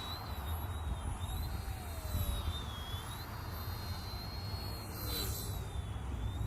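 Small RC helicopter (Eachine E110) flying, its motors and rotors giving a thin high whine that rises and falls in pitch as the throttle changes, over a steady low rumble.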